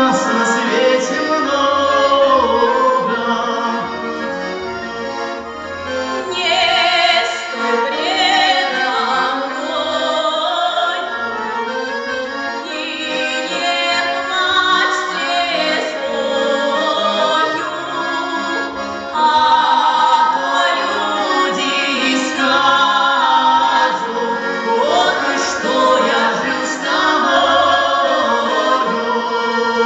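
A song sung by male and female voices, with accordion accompaniment and wavering held notes.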